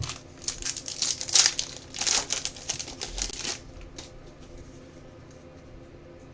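Plastic card packaging crinkling and crumpling in the hands, with irregular crackles for about three and a half seconds, then only faint rustles.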